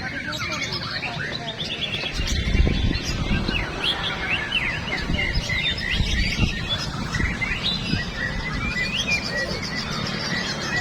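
Several caged white-rumped shamas singing at once, a dense tangle of overlapping whistles, trills and chirps. Low rumbles come in a couple of times.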